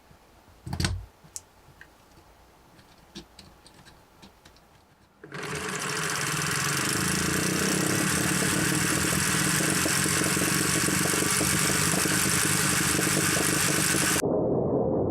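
A few sharp clicks of Lego Technic pieces, then about five seconds in a Lego Technic straight-twin engine model starts spinning fast, a loud, steady mechanical whirr of its pistons, crankshaft and gears rattling. Near the end the sound turns suddenly muffled, losing its upper range.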